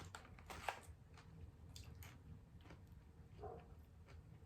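Near silence: room tone with a few faint, short clicks and a soft, brief voice-like sound about three and a half seconds in.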